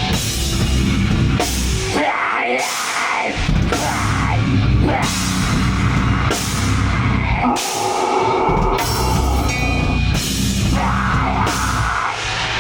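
Loud live heavy rock band playing, with drums, crashing cymbals and distorted instruments; the low end drops out briefly twice before coming back in.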